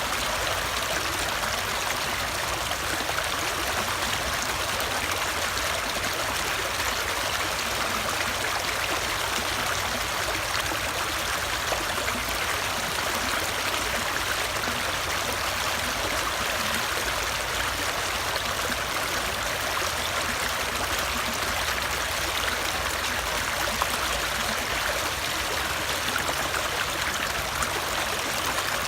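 Running water flowing steadily, an even, unbroken splashing noise.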